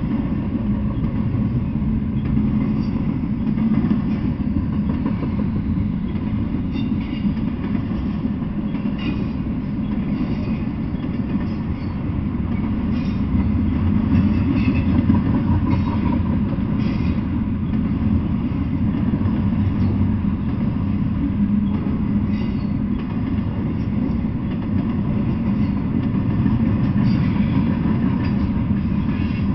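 Intermodal freight train rolling past: double-stack container well cars and trailer flatcars running over the rails with a steady low rumble and scattered clicks from the wheels.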